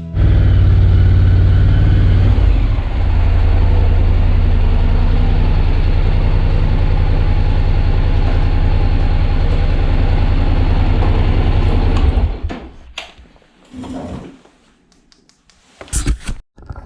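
Parallel-twin motorcycle engine idling steadily, then switched off about twelve seconds in, followed by a few short clicks and knocks.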